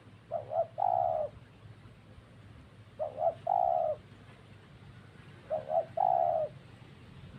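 A dove cooing: three calls, each two short coos followed by a longer, slightly falling coo, repeated about every two and a half seconds.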